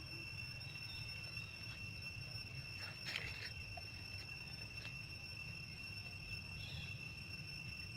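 Steady high-pitched drone of insects, held at one pitch throughout, with a few faint short chirps or clicks, the clearest about three seconds in.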